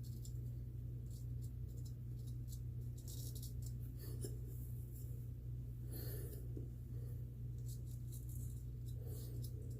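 Gold Dollar 208 straight razor scraping through lathered stubble in many short, scratchy strokes on the first pass, over a steady low hum.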